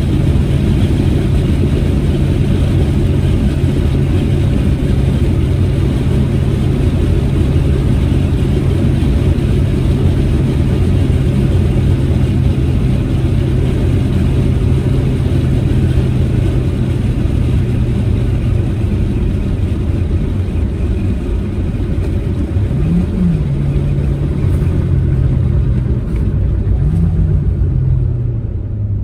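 Proton Saga with a manual gearbox driving at a steady cruise, its engine holding one even note over tyre and road noise. Near the end the engine note drops, then rises and falls briefly twice, a few seconds apart.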